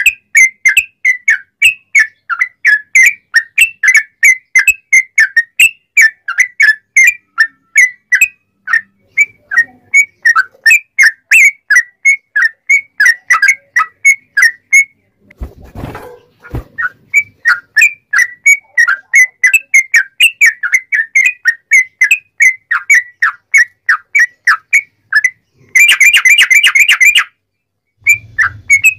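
Yellow-vented bulbul (trucuk) singing loud, whistled chirps, about three short notes a second. A short low bump or rustle comes about halfway through. Near the end comes a fast, dense rattling trill lasting over a second before a brief pause.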